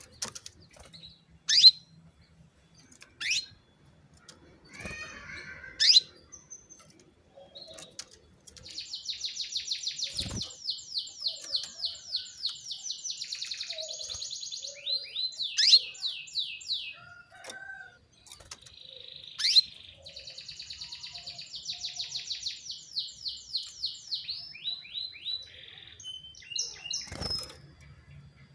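Female canary calling: three sharp single chirps a few seconds apart, then two long, fast trills of rapidly repeated high notes, each ending in a short run of slower separate notes. This is a lure call used to set male canaries singing.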